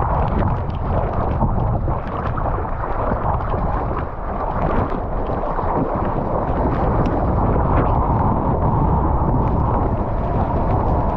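Strong wind blasting across a GoPro's microphone as a steady, loud rumble, mixed with the wash of surf and water sloshing around.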